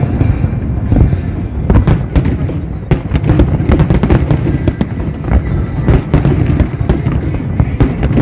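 Aerial fireworks display: a rapid, continuous barrage of bangs and crackles over a steady low rumble.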